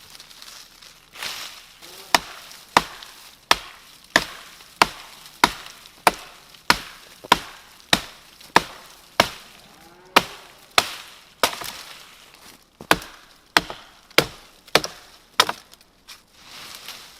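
Axe chopping wood: a steady run of about twenty sharp strikes, roughly three every two seconds, with a short pause about two-thirds of the way through.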